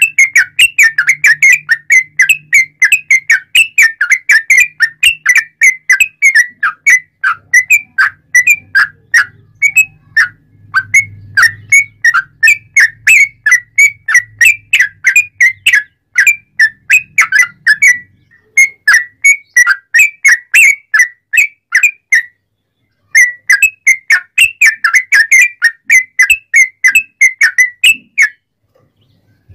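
Yellow-vented bulbul (trucuk) singing a fast, unbroken string of short, sharp whistled notes, several a second. The string breaks off briefly twice in the second half and stops about a second before the end.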